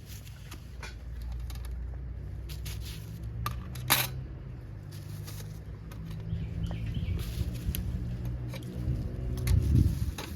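Scattered light clinks and knocks of metal cooking gear being handled, with a sharp knock about four seconds in and another near the end, over a low steady rumble.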